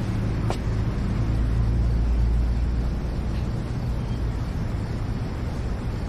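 A low, steady rumble like distant traffic, easing off a little about halfway through, with one faint click about half a second in.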